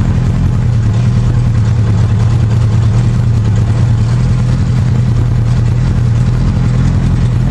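Rally car engine idling steadily while the car stands still, heard from inside the cabin.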